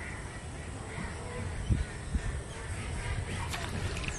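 Birds calling over and over in short calls, with a few low thumps, the loudest about a second and a half in.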